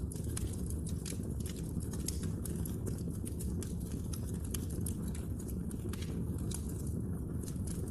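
Wood fire crackling: many small sharp pops and snaps at an irregular pace over a steady low rumble of burning.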